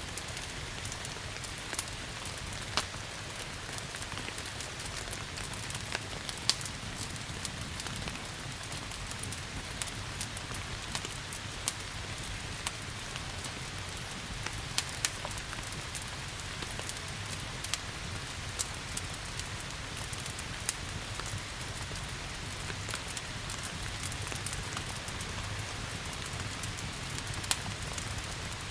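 Steady rain hiss mixed with a wood fire crackling in a fireplace, with frequent sharp, irregular pops throughout.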